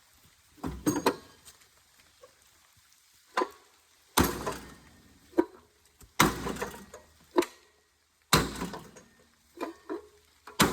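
An old rusty microwave being struck again and again, about ten separate impacts with a short ring after each. The heaviest three blows land about four, six and eight seconds in.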